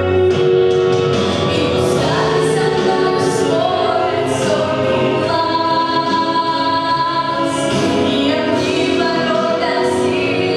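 A girl singing a song over instrumental accompaniment, the voice holding long pitched notes.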